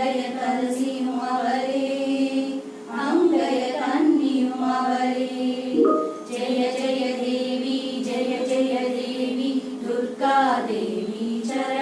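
A group of voices singing a song in unison in long, held phrases over a steady drone tone.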